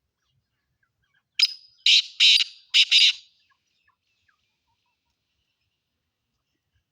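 Black francolin (black partridge) calling once: a quick, harsh, grating phrase of about five rasping notes over roughly two seconds, starting about a second and a half in.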